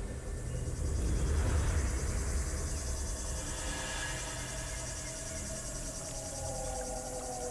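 Rainforest insect chorus, a steady high-pitched trilling that pulses finely and evenly. A low rumble swells about a second in and fades by the two-second mark.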